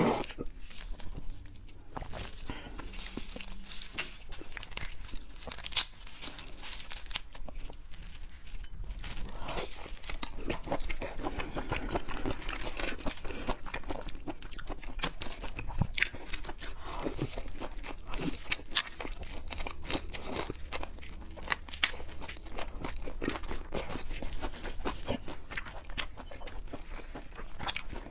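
Close-miked eating of seafood: crunching, chewing and crackling, with many short sharp cracks scattered irregularly throughout.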